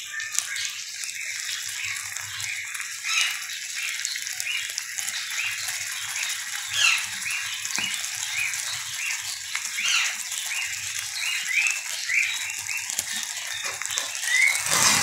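Liver frying in a hot karahi, a steady sizzle. Short chirps repeat over it about twice a second.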